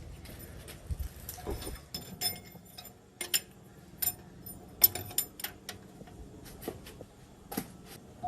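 Irregular metallic clinks and taps: hand tools and small engine parts knocking against each other and against metal during diesel engine work, a few of the knocks ringing briefly.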